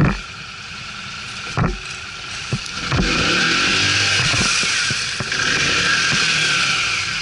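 ATV engines running, with a hissing, noisy din and some rising and falling engine pitch in the middle. Sharp knocks come at the start, about a second and a half in and about three seconds in.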